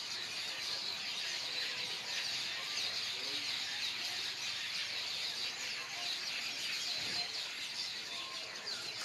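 A flock of birds calling together: a dense, steady chatter of many overlapping high-pitched chirps.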